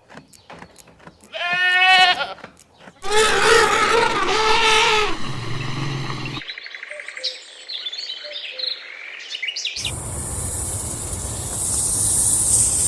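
Goat bleating twice, each a wavering, quavering call, the second longer. After that come faint high chirps and then a steady high hiss.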